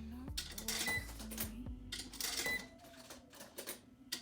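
Coins being fed into a coin-operated washing machine, a series of metallic clinks roughly every half second, with background music playing underneath.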